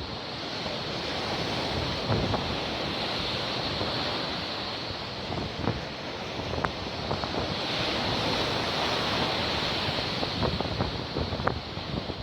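Stormy sea surf breaking and washing on the shore, a continuous rushing noise that swells and eases, with strong wind buffeting the microphone in short knocks.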